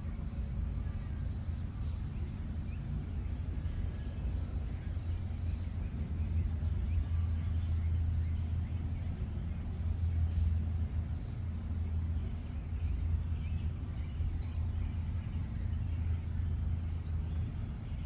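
Steady low rumble of a vehicle running, growing a little louder in the middle.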